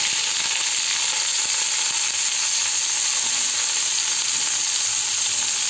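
Shredded cabbage frying in hot oil in a kadai, a steady high sizzle.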